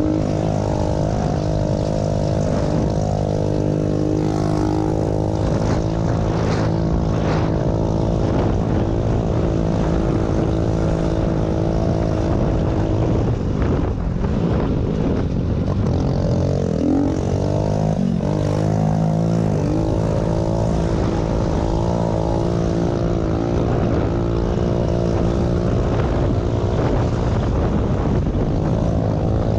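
Small single-cylinder pit bike engine running under way, mostly at a steady speed, with the revs rising and falling repeatedly about halfway through.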